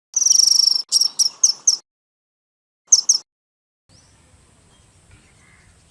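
High-pitched bird calls: a loud, fast trill followed by a few sharp chirps, then two more chirps about three seconds in, with dead silence between. A faint outdoor background begins about four seconds in.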